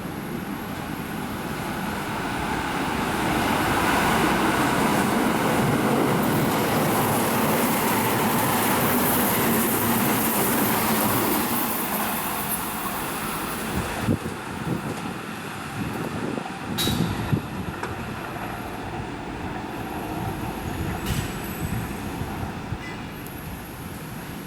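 Keihan 1000-series electric commuter train running through the station at speed without stopping. The rumble of wheels and motors builds over a couple of seconds and stays loud for about seven seconds. It then fades as the train goes by, with a few sharp knocks from the wheels on the track after the loudest part.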